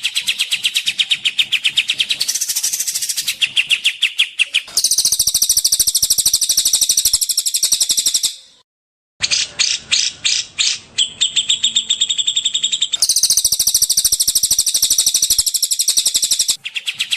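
Recorded songbird song used as a masteran training track: rapid, high chirping trills of many notes a second. It switches abruptly between different phrases and breaks off briefly about halfway through.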